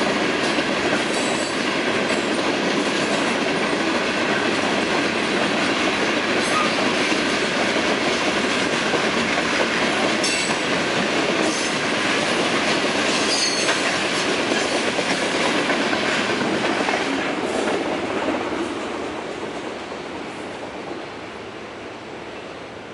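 Freight train's hopper cars rolling past, a steady rumble and rattle of steel wheels on rail with sharp clicks over the joints. The last car passes about three-quarters of the way through and the sound fades away.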